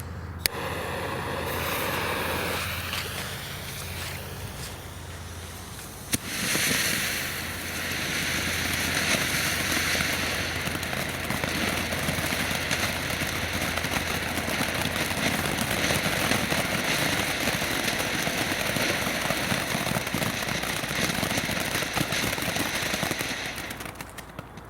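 A small consumer firework is lit. Its fuse or start fizzes for a few seconds, then there is a sharp pop about six seconds in. After that the fountain sprays with a steady hiss for about seventeen seconds and dies away near the end.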